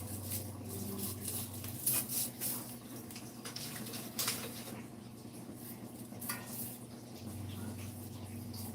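A few scattered sharp clinks and knocks, the loudest about two seconds in and just past four seconds, over a steady low hum and faint hiss.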